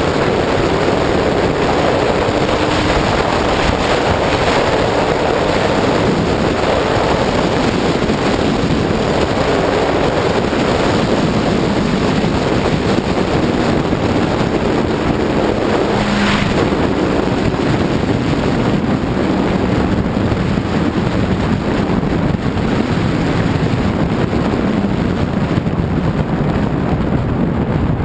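Heavy wind rush on the microphone of a sportbike at freeway speed, with the motorcycle's engine running underneath and its pitch shifting a little.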